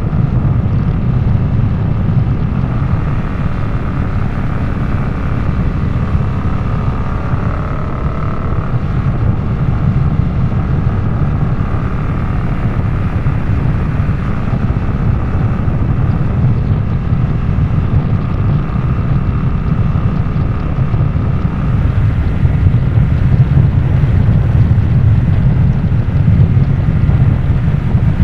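Harley-Davidson Nightster's V-twin engine running under way through a Jekill & Hyde adjustable valve exhaust, with wind buffeting the microphone. It gets a little louder in the last few seconds.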